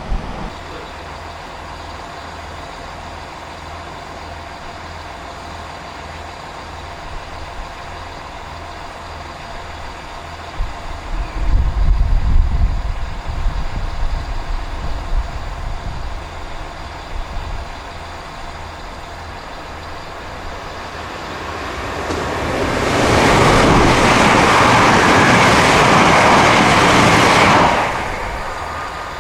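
Diesel train engine running steadily with a faint hum, with a low rumble about eleven seconds in. Near the end a loud rushing hiss swells up, holds for about five seconds and cuts off suddenly.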